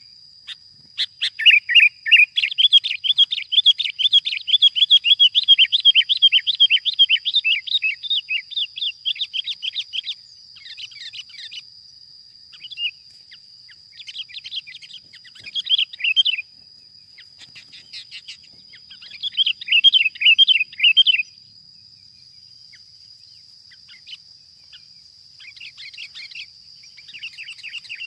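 Sooty-headed bulbul (kutilang) calls: a long run of rapid chattering notes for the first ten seconds or so, then shorter bursts of chatter. A steady high-pitched tone runs underneath.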